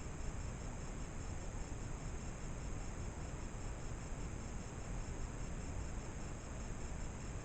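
Insects trilling steadily in high, even bands, one of them pulsing at a fast, regular rate, over the low hiss and rumble of a trail camera's microphone.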